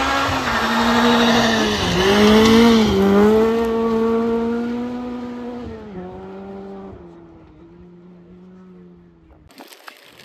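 Rally car going past at speed. Its engine note dips and climbs again through gear changes, is loudest about two to three seconds in, then fades away into the distance. The sound cuts off abruptly near the end.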